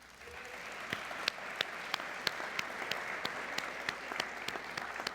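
Audience applauding, building up in the first second and then holding steady, with one person's louder claps standing out at about three a second.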